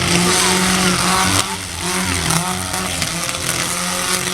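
Engine of a tough-truck competition vehicle running hard on the course, loudest at first and easing off about one and a half seconds in, then running on a little quieter.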